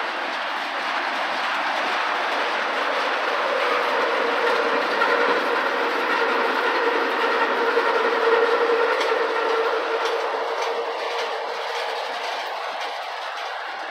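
Tank cars of a CSX freight train rolling past: steel wheels rumbling and clacking over the rails. A steady squeal rides over the rumble from about four to ten seconds in, while the sound is at its loudest.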